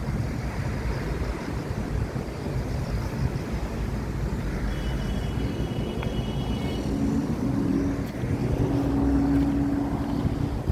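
Wind rumbling on the microphone, with a steady low engine hum coming in about halfway through.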